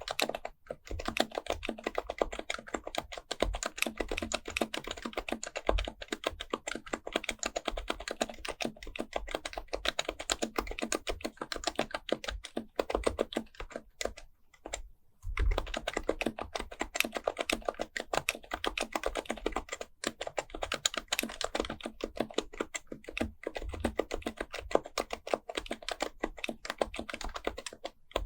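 Continuous fast typing on an HHKB Pro Type-S keyboard with its silenced Topre capacitive key switches, a dense run of soft key clicks with a pause of about a second near the middle.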